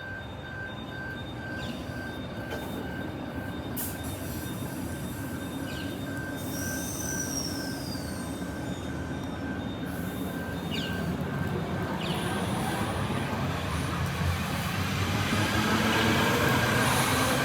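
Queensland Rail IMU electric multiple unit pulling away from the platform, its rumble and running noise growing steadily louder as it accelerates. A fast repeating high beep sounds until about two-thirds of the way through, and there is a brief high squeal about seven seconds in.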